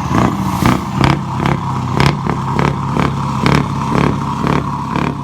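Large truck engine running steadily, with a sharp, regular knock about twice a second over the engine's hum.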